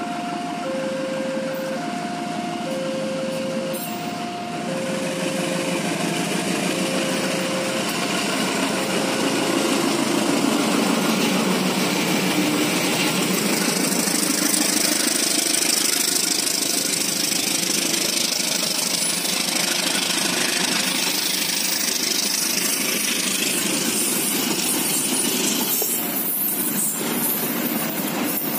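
Passenger train passing at close range. A diesel locomotive's engine runs as it approaches, then steel wheels of the passing coaches roll steadily over the rails, with clicks over the joints near the end. Over the first nine seconds an electronic two-note tone alternates and fades under the train noise.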